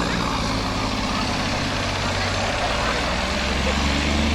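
Tractor diesel engine running steadily, its pitch rising a little near the end.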